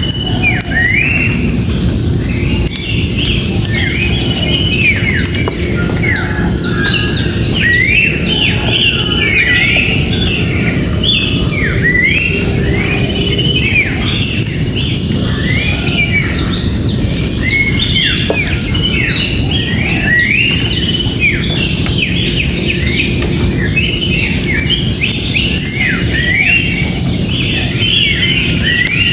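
A dense chorus of many wild birds chirping and calling, with quick overlapping notes that rise and fall, over a steady high hiss and a low rumble.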